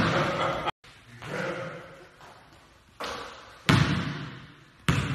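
Basketball bouncing hard on a gym court, a few sharp bounces that ring out in the hall, with a sudden cut in the sound about a second in.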